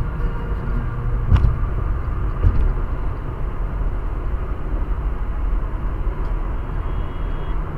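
Car driving: steady road and engine noise with a low rumble, and a single sharp click about a second and a half in.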